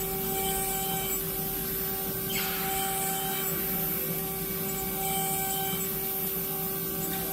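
5-axis dental CAD/CAM milling machine cutting an implant part: the spindle runs with a steady whine while the cutter grinds against the workpiece, with a brief hiss about two and a half seconds in.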